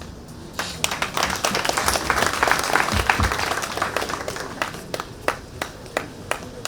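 An audience applauding. The clapping starts about half a second in, swells to a dense patter, then thins out to scattered single claps near the end.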